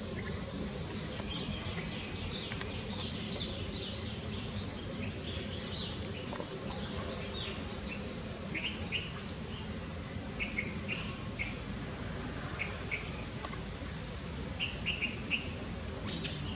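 Birds chirping in short high notes, often in quick groups of two or three, over steady outdoor background noise.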